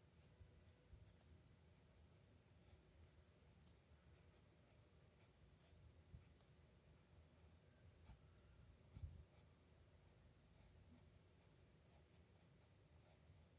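Faint scratching of a dip nib pen on paper in short, irregular strokes as someone writes by hand. There is a soft low thump about nine seconds in.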